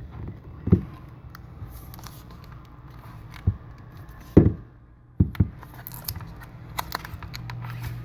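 Light taps and clicks of hands handling an iPad mini 3 as the new digitizer glass is pressed down into its frame, about half a dozen scattered through, over a low steady hum.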